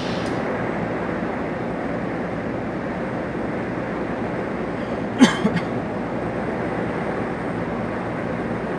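Steady road and engine noise of a moving truck, with a sharp knock about five seconds in followed by two smaller ones.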